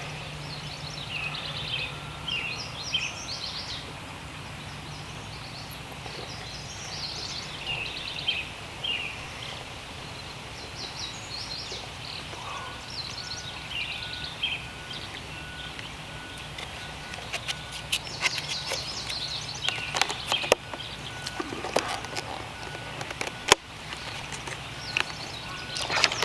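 Birds chirping and singing in short repeated phrases over a steady low hum. About halfway in, a faint, even, pulsing tone joins them, and sharp clicks come and go near the end.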